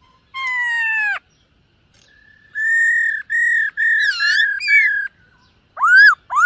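Black-throated laughingthrush singing: a harsh falling note, then a run of clear whistled notes with a warble in the middle, and two short arching whistles near the end.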